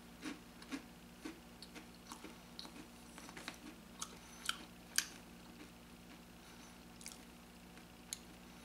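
A person chewing Alpo T-Bonz beef-flavour dog treats with the mouth closed: faint crisp crunches and wet clicks, thickest in the first half and thinning out later, over a low steady hum.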